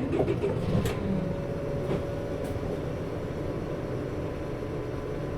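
Cabin sound of a PKG-RA274KAN city bus standing still with its diesel engine and engine-driven coupling fan running steadily, a constant hum with a held tone. A few light clicks and knocks in the first two seconds.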